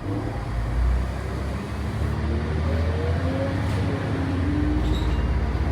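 1996 Volvo B10B bus heard from on board while under way: its diesel engine and driveline run loud and low, the pitch climbing as the bus accelerates, then climbing again after a shift.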